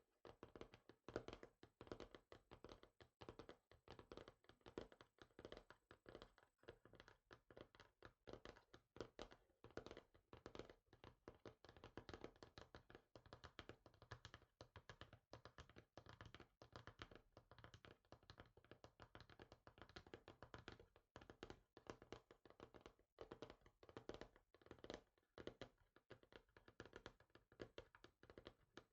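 Fingers tapping quickly and lightly on a small hard surface, many irregular taps a second, close-miked for ASMR.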